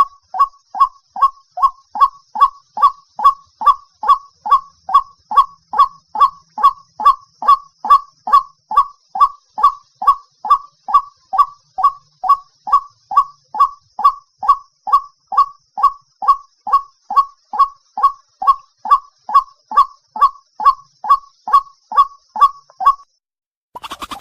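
White-breasted waterhen call used as a hunting lure: a loud, honking 'kruak' note repeated evenly about twice a second, each note dropping slightly in pitch. The calling stops about a second before the end, and a different, noisier sound begins.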